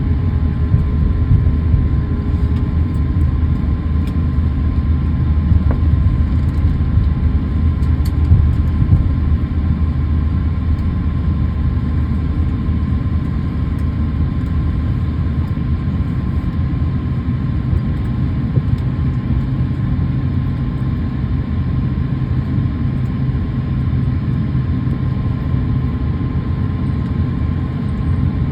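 Jet airliner cabin noise: a steady low rumble of engines and airflow heard inside the cabin, with a faint steady whine above it.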